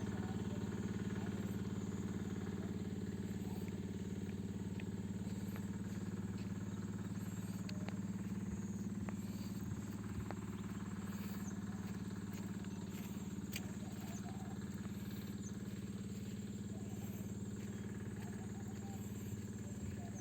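Kirloskar 5 hp stationary engine running steadily at a constant speed.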